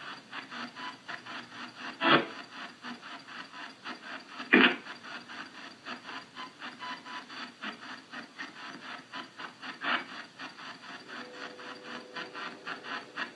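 Spirit box sweeping through radio frequencies: a steady choppy pulsing of static, about four bursts a second. Two sharp knocks stand out about two and four and a half seconds in, with a weaker one near ten seconds.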